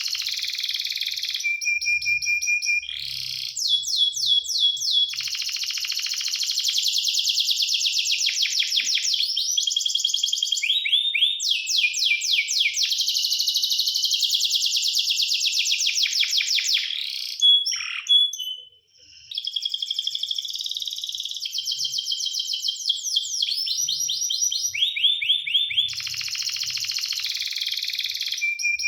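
Canary singing a long song of rapid trills and held whistled notes, with a brief pause about two-thirds of the way through.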